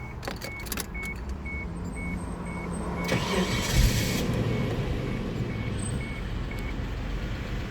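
Suzuki Grand Vitara's engine being started: the starter cranks for about a second, three seconds in, and the engine catches and settles into a steady idle; its catalytic converter has been removed. A dashboard warning chime beeps about twice a second through most of it, and a few clicks come early on.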